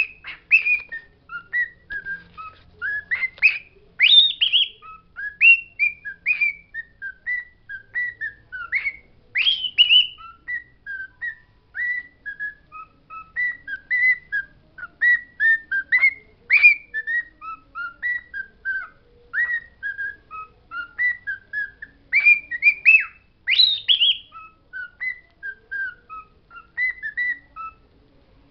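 Pet bird singing: a busy, continuous string of short whistled chirps broken by quick rising whistles.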